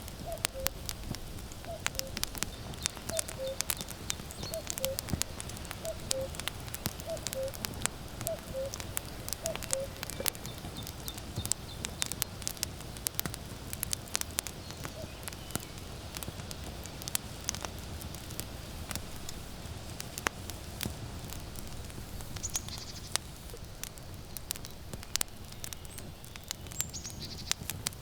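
Firewood burning with dense crackling and sharp pops over a low steady rumble. A common cuckoo calls its falling two-note "cuck-oo" about once a second, stopping about ten seconds in.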